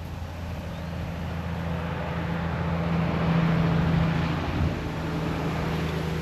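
A motor vehicle passing: its rushing engine and tyre noise grows, peaks about halfway through and fades, over a steady low engine hum.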